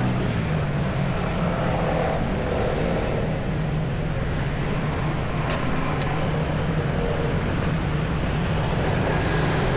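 Street traffic: a steady low hum of motor vehicle engines over road noise.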